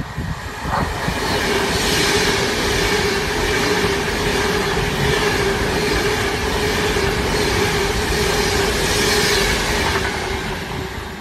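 Class 390 Pendolino electric train passing: a loud rush of wheel and air noise with a steady hum underneath, fading away near the end as it goes.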